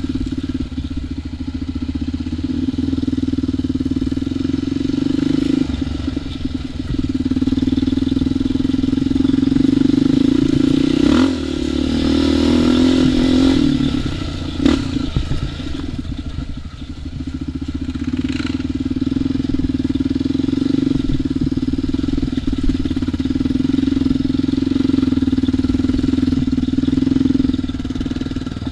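ATV engine running at a fairly steady pitch during a trail ride, with a sharp knock about fifteen seconds in.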